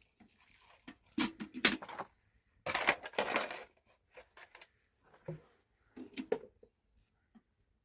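Irregular short knocks and clinks of household objects being handled, with a longer noisy stretch about three seconds in.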